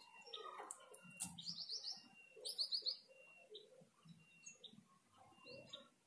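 Birds chirping: quick runs of high chirps, loudest about two and a half seconds in, among short high single notes repeating every second or so.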